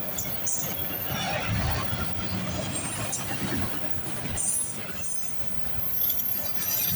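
Cars of CSX manifest freight train M353 rolling past on the rails, with brief high squeals from the wheels a few times.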